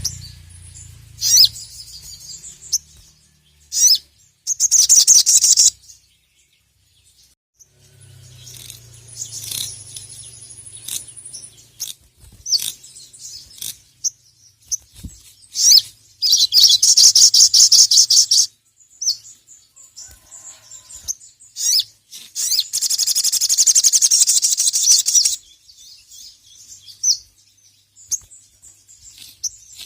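Sogon (sogok ontong) bird calling in full song: loud bursts of very fast, high chattering chirps lasting one to three seconds, with sharp single chirps between them. This is the excited challenge call of a bird provoked by a rival.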